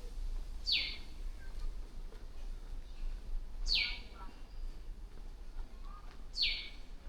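A bird calling three times, about three seconds apart, each call a short, sharply falling high whistle.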